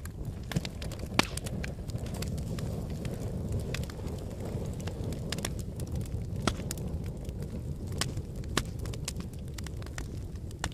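Fire in a fireplace crackling: a steady low rumble of flames with scattered sharp pops, a few louder than the rest, the sharpest about a second in.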